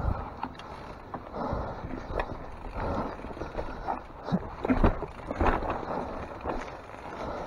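Mountain bike descending a rough trail: irregular knocks and rattles from the bike over rocks and roots, over a steady wash of tyre and trail noise.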